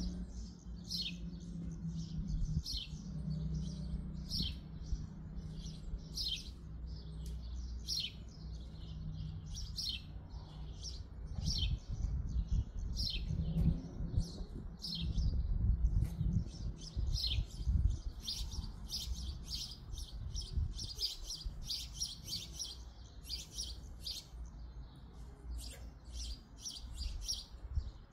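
A small bird chirping over and over in short, high notes, about one to two a second, coming faster in the second half. A low rumble runs underneath.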